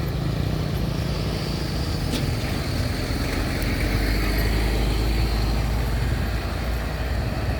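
Heavy truck engine running steadily, with the low rumble growing deeper and heavier about halfway in.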